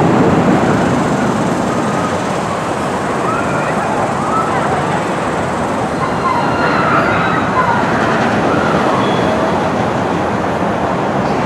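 Six Flags Railroad train running with a steady loud rumble and short high squeals, the kind given by wheel flanges on the rails.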